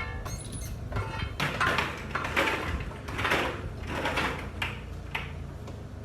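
A run of squeaks and scrapes, about five in a row, over a steady low machine hum, as a heavy engine is moved and lowered into position.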